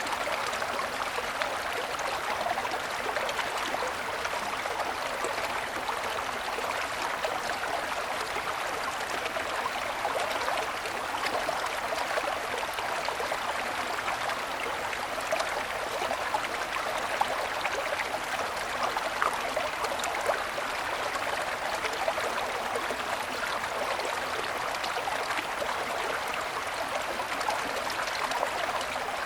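Small mountain stream flowing over snow-covered stones, a steady babbling and gurgling rush of water.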